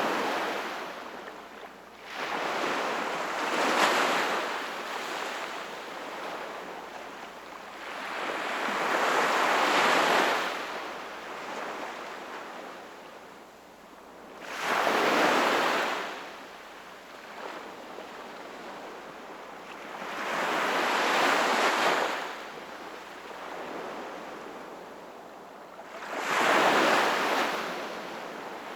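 Sea waves breaking and washing up the shore, each surge swelling and fading, about six times, roughly every five to six seconds.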